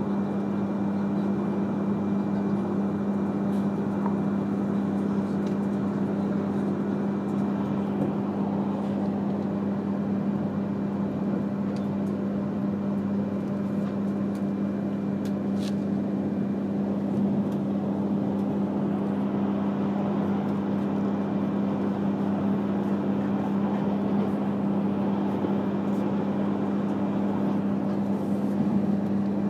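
E3-series Shinkansen train running, heard inside the passenger car: a steady low hum over a continuous rolling rumble.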